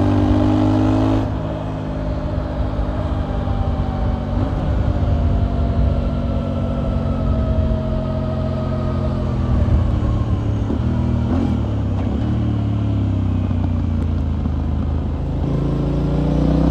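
Motorcycle engine and exhaust on the move: pulling hard at first, then the throttle closes about a second in and the engine note falls slowly as the bike slows, before it picks up and rises again near the end.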